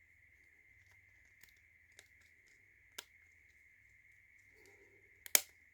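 Laser-cut wooden puzzle pieces handled and pressed into place: a few small, sparse clicks, then a sharper wooden knock about five seconds in, over a faint steady high hum.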